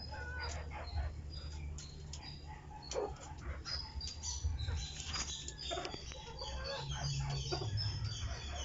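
Birds chirping: many short, high chirps, one after another, over a steady low hum.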